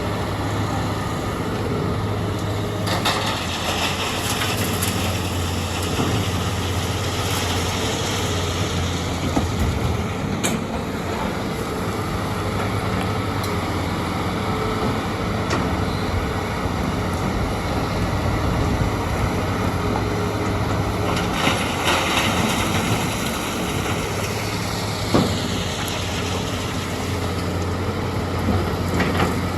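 Heavy diesel machinery running steadily with a low drone, broken by hissing surges and a falling whine, with a few sharp knocks.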